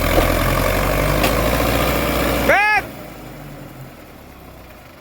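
Sonalika tractor's diesel engine running loud, then dropping suddenly to a much quieter idle a little under three seconds in, with a short rising-and-falling squeal just before the drop.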